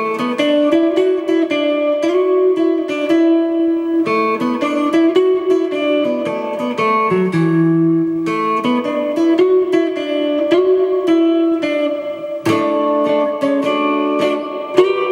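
Kit-built electric guitar played solo: a picked melody of single notes and chords, each note ringing on.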